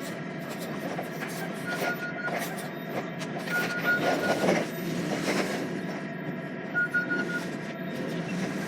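Lorry cab noise: steady engine and road rumble, with a few clunks around the middle and three short runs of rapid high beeping.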